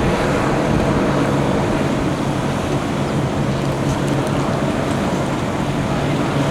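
Steady traffic noise with a low, even engine hum.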